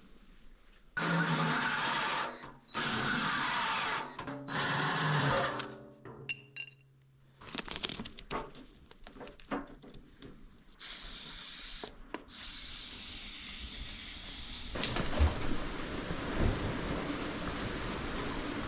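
Power drill turning a carbide-toothed hole saw through the sheet-steel seat base in several short bursts, with scraping and clatter between the cuts.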